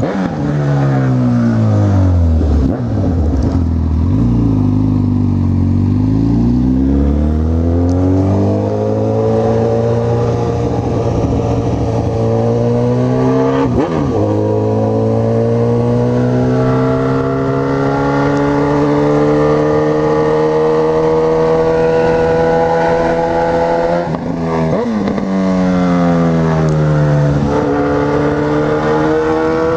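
Honda CB1000R's inline-four engine on the move: the revs drop off in the first few seconds, then climb steadily through the gears, with a gear change about halfway through and another later on.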